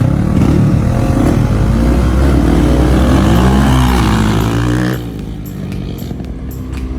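Off-road vehicle engine (four-wheeler or side-by-side) revving, its pitch climbing and falling under throttle. About five seconds in it drops suddenly to a quieter, steady lower drone.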